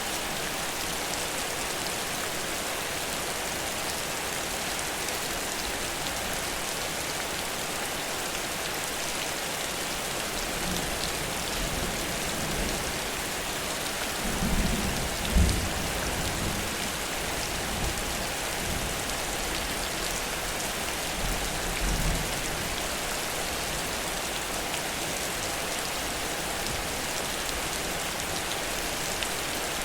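Heavy rain falling steadily on surfaces. A few low rumbles swell up about halfway through and again a little later.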